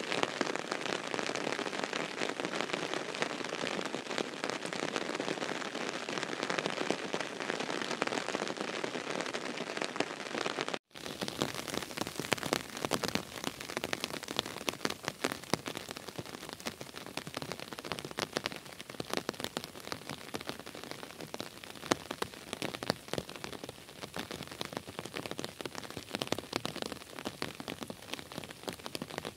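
Rain falling steadily on sandy ground and puddles, a dense patter of drops. After a break about eleven seconds in, it is a lighter patter with more separate drop hits.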